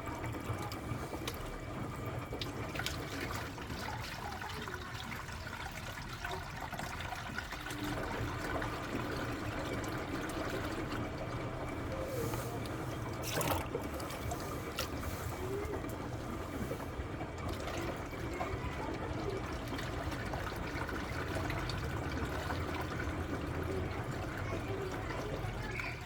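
Water steadily pouring and trickling into a washing machine's drum as more water is added during the wash cycle.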